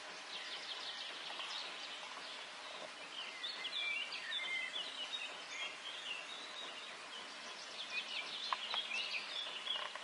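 Steady outdoor hiss with birds chirping, the chirps coming in clusters in the middle and again near the end; no heavy machinery is heard running.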